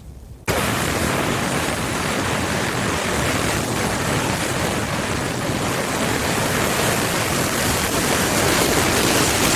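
Loud, steady rushing of turbulent water, such as a flood or surging wave, starting abruptly about half a second in after a quieter stretch.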